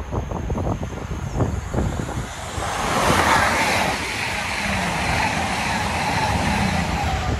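CrossCountry Voyager diesel multiple unit passing close by at speed: a loud, even rush of wheel and air noise that swells in about two and a half seconds in and holds. Before it, a low, gusty rumble.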